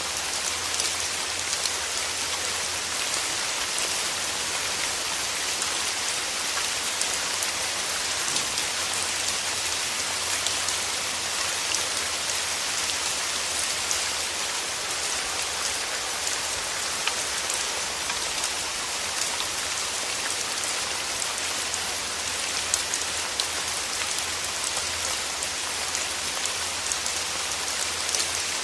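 Steady rain: a constant hiss of falling rain, strongest in the upper range, with individual drop ticks scattered through it.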